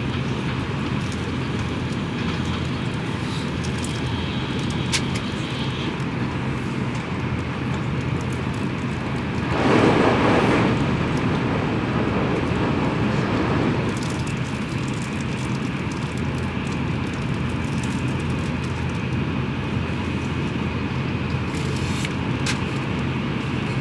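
Tokaido Shinkansen train running, heard inside the passenger cabin as a steady rumble and hum. About ten seconds in, a louder rushing swell comes in and fades over a few seconds.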